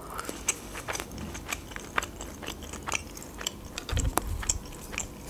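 Close-miked chewing with the mouth closed: many small, sharp wet mouth clicks. A low thump comes about four seconds in.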